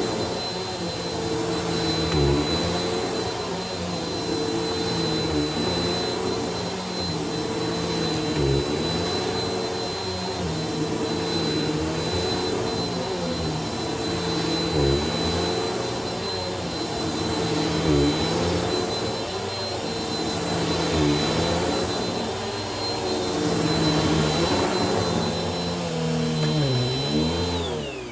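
Bissell vacuum cleaner running on a shag rug, its motor whine steady while the lower tone dips about every three seconds as it is pushed and pulled. Near the end the whine falls away as the motor is switched off.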